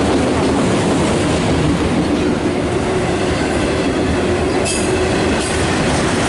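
CSX autorack freight train rolling past with a steady rumble of wheels on rail. A couple of brief high wheel squeals come near the end.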